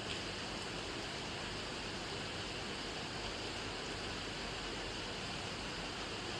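Steady rain falling, an even hiss of drops with no breaks, and a faint single tick just after the start.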